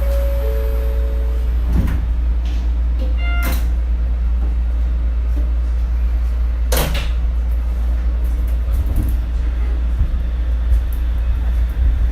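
Shonan Monorail car running along its track, heard from inside: a steady deep rumble from the rubber-tyred bogies in the overhead beam, broken by a few sharp knocks and clunks as the car jolts.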